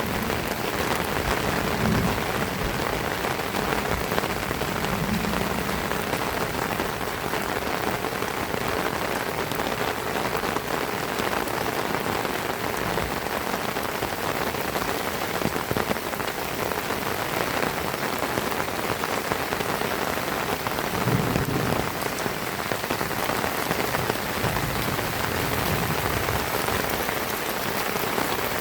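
Heavy rain falling steadily and pattering on surfaces, with a few brief low thuds here and there.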